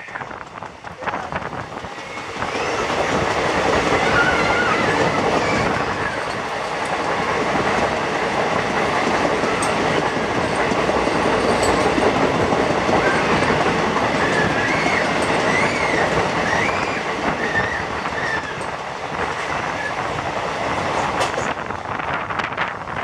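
Indian Railways express passenger coaches running at speed through a tunnel: steady wheel-on-rail clatter that grows louder about two seconds in as the train enters the tunnel and eases near the end as it comes out. Wavering wheel squeal rises above it twice, on curves.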